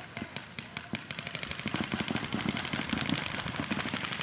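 Airsoft guns firing on full auto: scattered shots at first, then a dense, rapid stream of pops that gets louder about a second and a half in.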